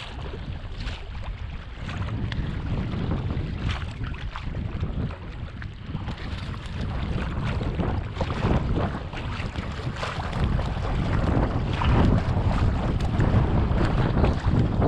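Wind buffeting the camera microphone, a heavy low rumble with irregular knocks and rustles of handling, growing louder toward the end.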